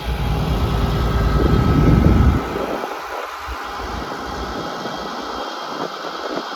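Hitachi Zaxis 200 LC excavator's diesel engine idling steadily, with an irregular low rumble over it that is heaviest for the first two seconds or so and then comes and goes.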